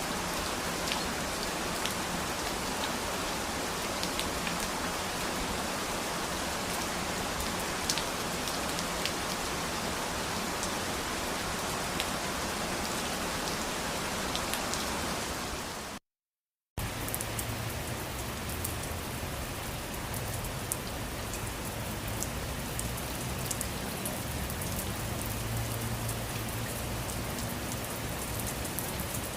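Steady rain falling, with scattered sharper drop taps. About halfway through, the sound cuts out completely for under a second, then the rain resumes with a little more low rumble underneath.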